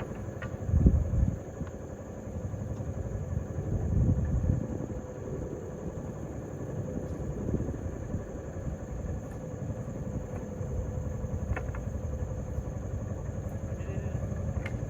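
A vehicle engine running at low speed, a steady low rumble that swells louder briefly about a second in and again around four seconds.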